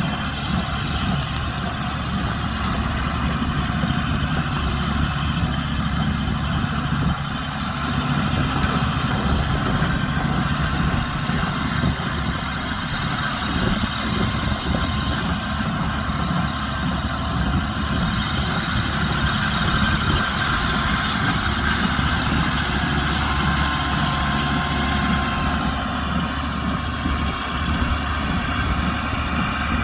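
Kubota M125X tractor's diesel engine running steadily under load while driving a TROTTER 125 baler, with the baler's machinery running along with it.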